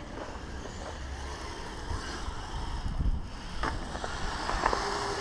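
Kyosho Blizzard radio-controlled tracked snow vehicle running, its electric motor and rubber tracks making a rough, noisy clatter as it drives over concrete.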